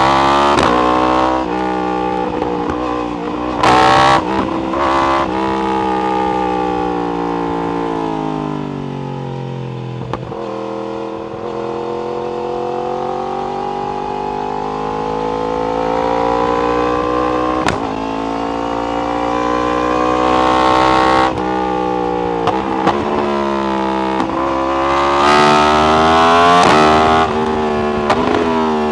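Yamaha R1 inline-four sportbike with an Akrapovic exhaust under way. The engine pitch rises and falls repeatedly through the gears, with a long steady climb in revs in the middle.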